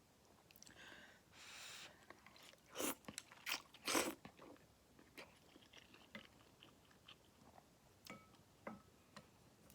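A person eating egg drop tan tan men ramen close to the microphone. Two short hissy slurps come about one and two seconds in, then a cluster of loud, sharp mouth and eating sounds around three to four seconds in, then quieter chewing clicks.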